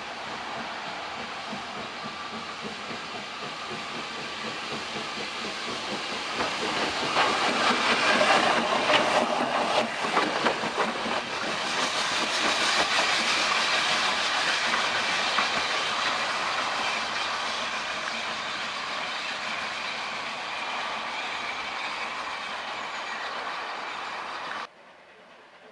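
A train passing on the line, its wheels clicking over the rail joints, growing louder to a peak about eight to twelve seconds in and then fading away. The sound cuts off suddenly near the end.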